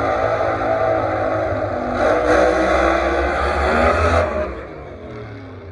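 Drag race car's engine running hard at high revs, louder for a couple of seconds, then dropping off and fading away a little past four seconds in.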